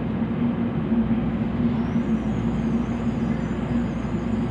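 N700-series Shinkansen train sound: a steady, even rushing noise with a constant low hum. Faint wavering high-pitched tones join in about two seconds in.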